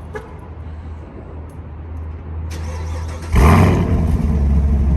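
Chevrolet Camaro SS 6.2-litre V8 on its stock exhaust, warm-started: the engine catches suddenly about three seconds in with a brief loud flare of revs, then settles into a loud, steady idle.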